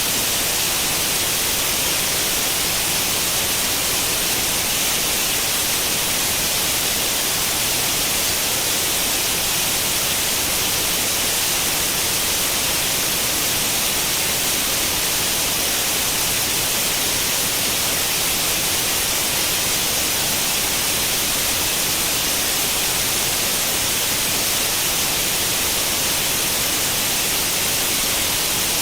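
Steady white noise, the hiss of an untuned tube television's static, unchanging throughout and brightest in the treble.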